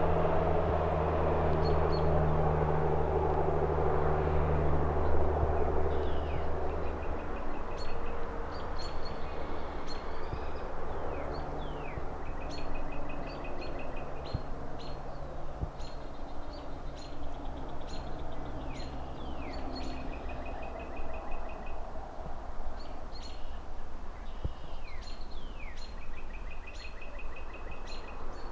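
A passing vehicle's low engine drone fades out over the first several seconds. A songbird then sings short phrases over and over, quick downward-sweeping notes and brief trills, over a steady background hush of city traffic.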